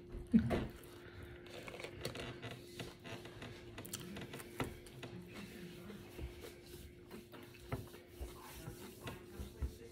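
Close-up eating sounds of someone chewing french fries: soft mouth sounds with scattered small clicks and smacks, over a faint steady hum. A brief vocal sound comes right at the start.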